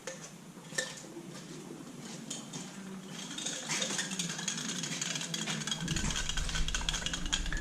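Catalysed vinyl ester resin being stirred in a small container, the mixer clicking and scraping rapidly against its sides, the stirring getting busier partway through and stirring bubbles into the resin.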